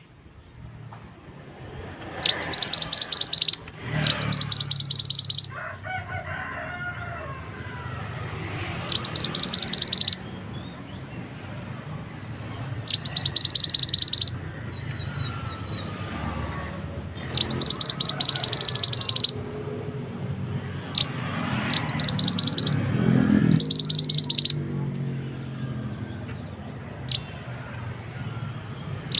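Mantenan songbird singing in repeated bursts of very fast, buzzy, even trills, each lasting one to two seconds with pauses of a few seconds between them.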